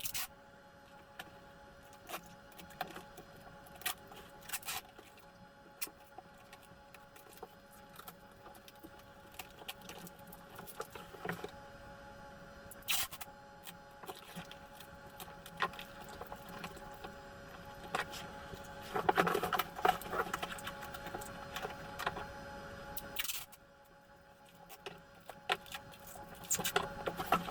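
Cardboard box being handled and adhesive tape pulled off a roll and pressed on, heard as scattered clicks, crackles and rustles. A longer burst of tape crackling comes about 19 seconds in. Faint steady tones run underneath.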